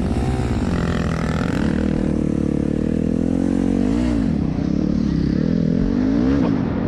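Dirt bike engine revving as it is ridden, its pitch rising and falling with the throttle, with quick sharp rises about four and six seconds in.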